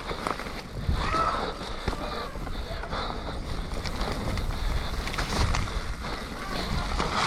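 Mountain bike descending a muddy trail: wind rushing over the camera microphone, with the bike knocking and clattering over rough ground throughout.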